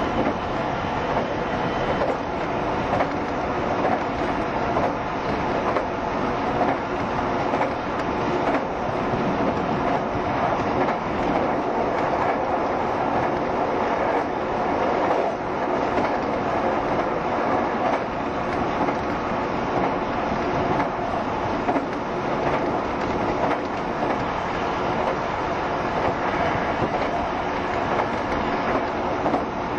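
JR Shikoku 7200 series electric train running steadily at speed between stations: continuous wheel-on-rail running noise with faint clicks from the rail joints.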